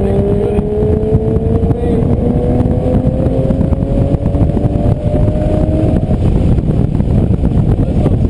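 Aston Martin DBS V12 engine pulling under acceleration, its note rising steadily in pitch for about six seconds before breaking off and settling, over a heavy low rumble.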